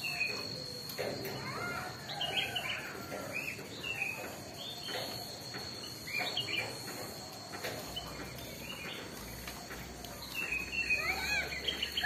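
Birds chirping in short calls, livelier near the end, over a steady high-pitched tone.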